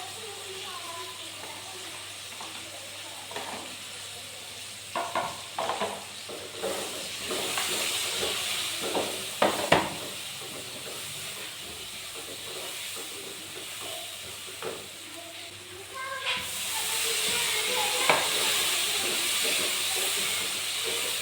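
Food frying in hot oil in a pan, a steady sizzle, with a few utensil knocks and clinks against the pan. The sizzle swells about a third of the way in and again a bit past two-thirds.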